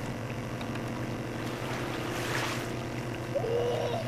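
Motorboat engines running steadily out on the lake, a low drone with water and wind noise, and a short higher-pitched call near the end.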